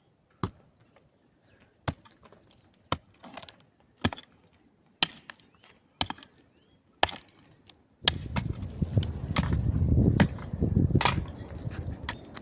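Sharp single strikes of a hand tool, about one a second. About two-thirds of the way through, a loud low rumble of wind on the microphone comes in abruptly, and the strikes carry on under it.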